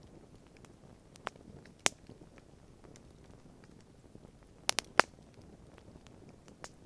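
Wood campfire crackling: scattered sharp pops over a faint low rumble, the loudest a quick run of three about five seconds in.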